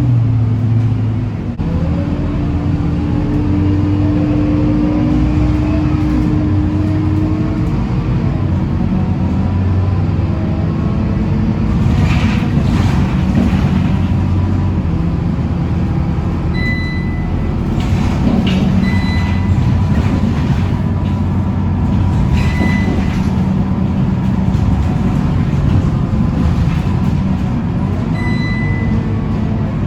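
Scania K230UB city bus under way, its diesel engine running steadily with its pitch rising and falling as the bus pulls away and changes gear, over road and body rattle. Several short high beeps sound in the second half.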